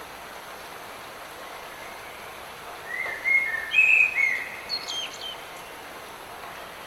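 Steady hiss of light rain, with a songbird singing one short phrase of clear whistled notes about three seconds in, ending in a few higher, quick sliding notes.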